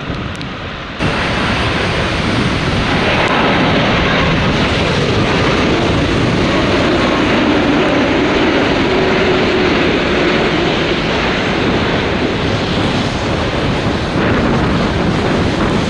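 Jet airliner passing close on its landing approach, its engines a steady rush with a faint hum, mixed with strong wind buffeting the microphone. The sound jumps up suddenly about a second in.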